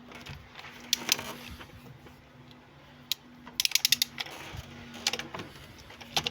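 Ratchet wrench clicking in short quick runs, over a steady low hum.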